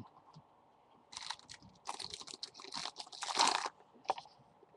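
Trading cards and a foil card-pack wrapper being handled: a run of irregular crinkling and rustling that starts about a second in.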